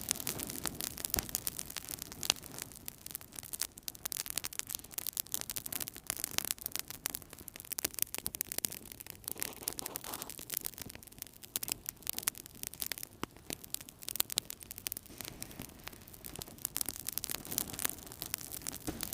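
Wood fire crackling in a fireplace: many sharp, irregular pops and snaps over a soft, steady hiss and rush of the flames.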